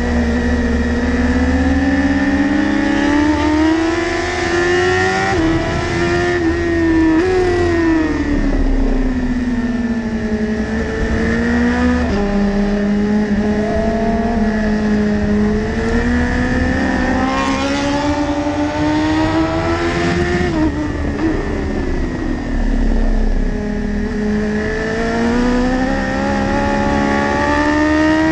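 2015 BMW S1000RR's inline-four engine at racing revs, its pitch climbing under throttle and stepping down sharply at upshifts, such as around 5, 7 and 12 seconds in. Between these it falls away smoothly while the bike slows for corners, then climbs again toward the end as it accelerates.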